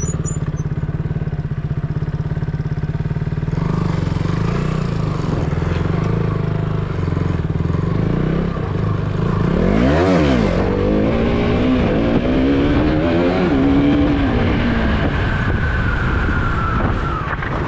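KTM Duke 200's single-cylinder engine running as the bike is ridden, the revs climbing and falling through the gears. About ten seconds in, the engine pitch drops sharply and then climbs again.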